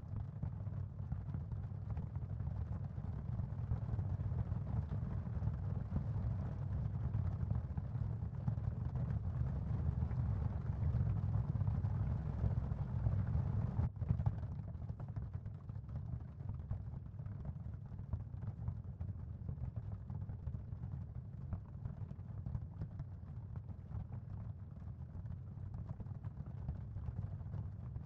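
Steady low rumbling noise of an ambient sound field made for tinnitus masking, with a brighter hiss that swells and then drops away sharply about halfway through.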